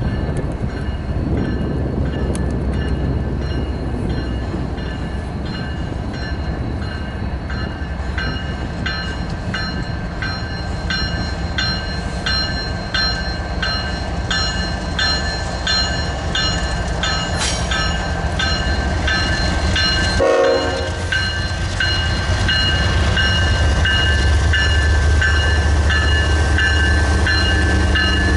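Union Pacific freight train approaching behind its diesel locomotives, with a bell ringing about one and a half strikes a second and growing louder as the train nears. A short horn blast sounds about twenty seconds in, and the locomotives' engine rumble swells near the end as they draw level.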